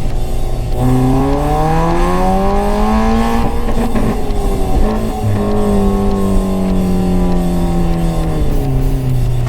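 Hyundai i20 with a modified exhaust accelerating, its engine note rising steadily for a few seconds. About four seconds in the note breaks off, then settles lower and falls slowly as the car eases off.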